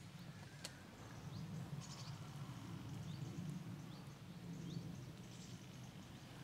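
Faint lakeside ambience: a low, steady rumble with several short, high, rising bird chirps about once a second.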